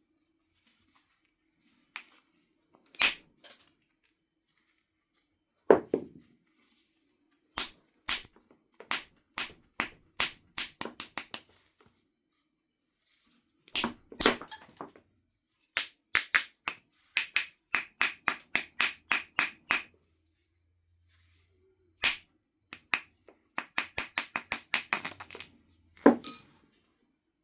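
Flintknapping percussion on a Knife River flint biface: sharp clicks of a billet striking the stone's edge, mostly in quick runs of light taps at about four or five a second. Two heavier, deeper strikes come about six seconds in and near the end.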